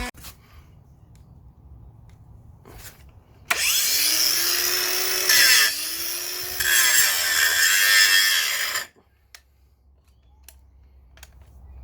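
Brushed cordless angle grinder running for about five seconds: it spins up, its pitch dips briefly near the middle and recovers, then the sound cuts off suddenly.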